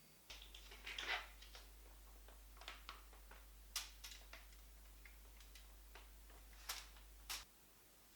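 Faint, scattered light clicks and taps, irregular, with a small cluster about a second in and a few sharper ticks later, over a low steady hum that stops near the end.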